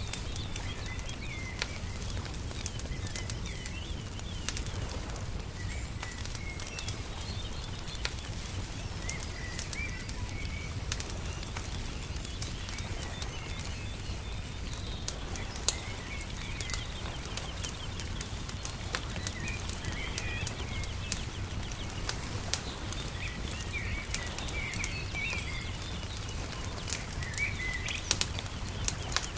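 Wood fire crackling with scattered sharp pops over a steady low rumble, while small birds chirp in short bursts now and then.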